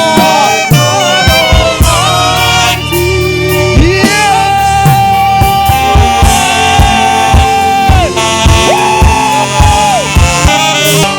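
Live gospel worship music: a band with drums and bass under a lead melody of long held notes that bend and slide in pitch.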